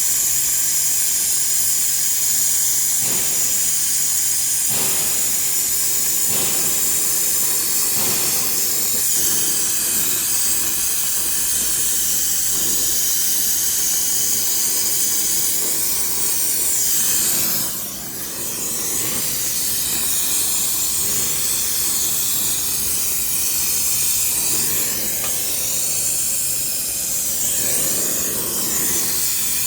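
Gas brazing torch flame hissing steadily while joining the copper refrigerant pipes of an air-conditioner outdoor unit, with a brief drop in level a little past halfway.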